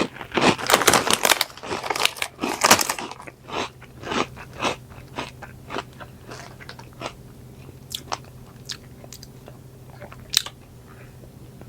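A person biting into and chewing crunchy Flamin' Hot Chester's Fries, close up: dense, loud crunching for the first three seconds or so, then thinning to softer, scattered crackles as the chewing goes on.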